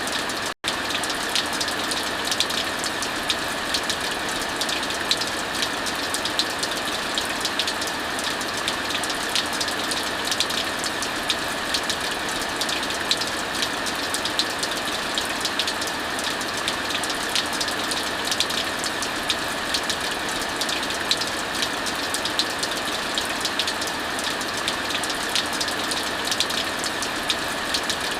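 Heavy rain falling steadily, a dense even hiss, mixed with a wood fire crackling in many small sharp pops. The sound cuts out for a split second about half a second in.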